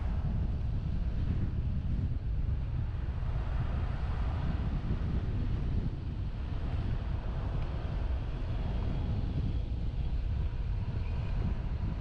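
Wind rushing over a truck-roof-mounted GoPro's microphone while driving, a steady low rumble mixed with road and vehicle noise.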